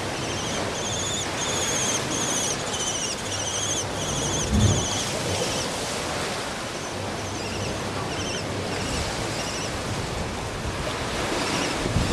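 A songbird repeats a short whistled note about twice a second for the first five seconds or so, then continues more faintly, over a steady rushing background like wind or surf. A low thump comes about four and a half seconds in.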